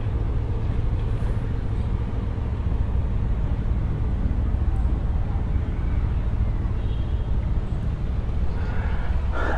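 Steady low rumble of motor vehicles and traffic, with faint voices in the background.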